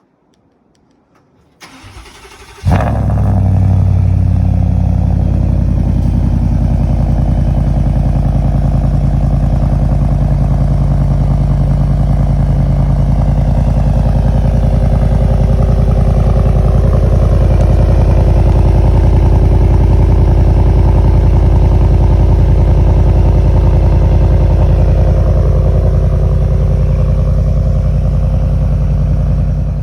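A 2018 Ford F-150's 5.0 L V8, exhaust with the muffler deleted and the resonator kept, cold-started: the starter cranks briefly about two seconds in, the engine catches with a sudden loud burst, then settles into a steady, loud idle.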